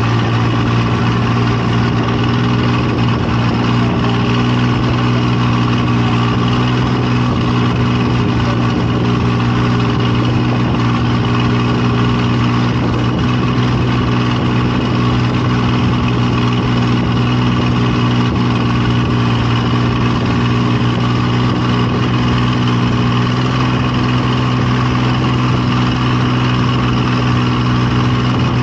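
An engine running steadily at one constant speed, a loud, even hum with no change in pitch.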